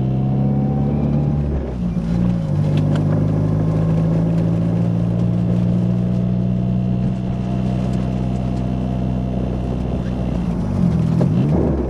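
1990 Nissan 240SX engine running steadily while the car is driven, heard from inside the car. Its note dips briefly about two seconds in, then holds steady, and wavers up and down near the end.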